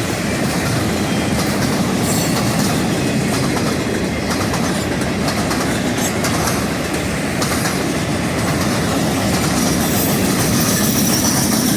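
Railroad cars of a passing train rolling by close at hand: a steady, loud rumble of steel wheels on rail, with occasional clicks.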